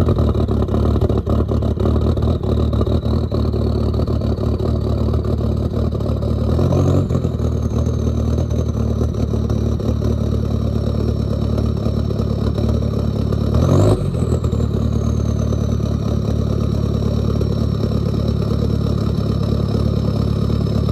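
Volkswagen Jetta's 1.9 L BEW four-cylinder TDI diesel running just after a cold start at −7, the engine still cold. Twice, about 7 s and 14 s in, it revs briefly, and each time a high whine rises and then slowly falls away.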